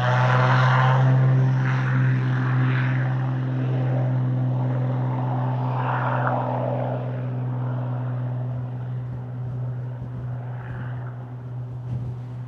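The twin Wright R-2600 radial engines of a WWII B-25 Mitchell bomber passing overhead: a steady low propeller drone, loudest about a second in and slowly fading away.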